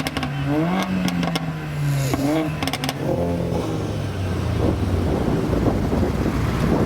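A car's engine pulling away, its note rising in steps and then holding for about three seconds before fading into road and wind noise.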